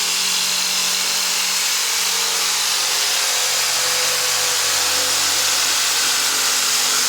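Electric jigsaw running steadily as it saws through plasterboard (drywall).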